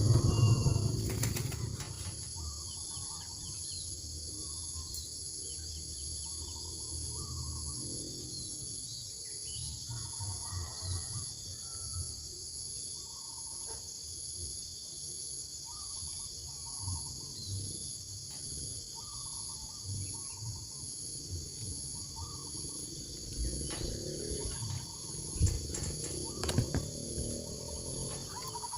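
A steady, high insect chorus, with short bird calls repeating every second or two throughout. A few sharp knocks come near the end.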